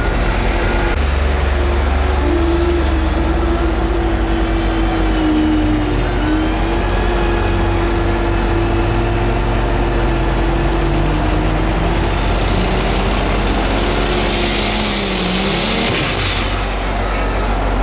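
Pro Stock pulling tractor's turbocharged diesel engine running hard under load. A high turbo whistle climbs in pitch about twelve seconds in, then the engine drops off sharply around sixteen seconds, the sign of the throttle coming off at the end of the run.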